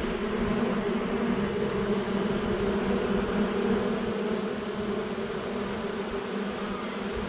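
A swarm of honey bees in flight: the dense, steady hum of many wings, a low drone with a higher overtone above it.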